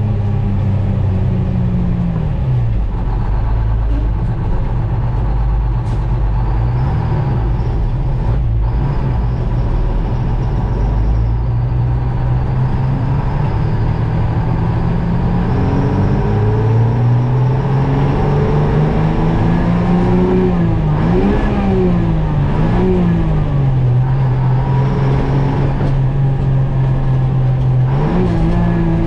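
GMC Crackerbox semi's two-stroke Detroit Diesel engine running under way, its revs falling about two seconds in, climbing again past the middle, rising and falling a few times, then holding steady before stepping up near the end.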